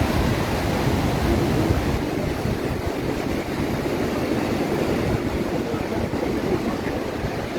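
Atlantic surf breaking on the beach, mixed with wind on the microphone: a steady rushing noise that holds an even level throughout.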